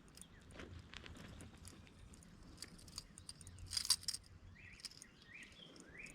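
Faint outdoor ambience with birds chirping in short, repeated calls, mostly near the end. About four seconds in there is a brief rattle of sharp clicks, the loudest sound.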